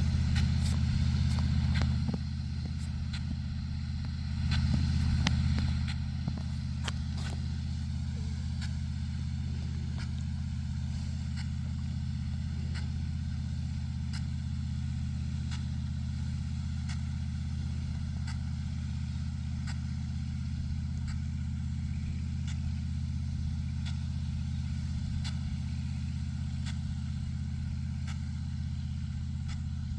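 A large engine running steadily with a deep, even drone, louder for the first two seconds and again for a couple of seconds about four seconds in.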